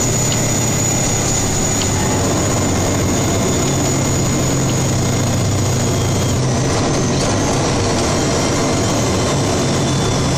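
Steady engine and road noise inside a snow-plow truck's cab while driving, with a strong low engine hum and a thin high whine that fades about six and a half seconds in.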